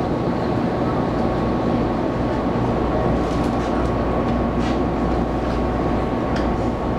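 Taiwan Railways local (區間車) train running at a steady speed, heard from inside the carriage: an even rumble of wheels on rail with a faint steady high tone and a few light clicks.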